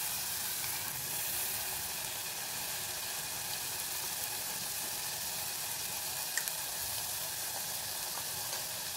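Green masala paste sizzling steadily in hot ghee in an earthenware pot, stirred with a silicone spatula at first. It is being fried until the ghee separates and the raw smell cooks off. One small click sounds about two-thirds of the way through.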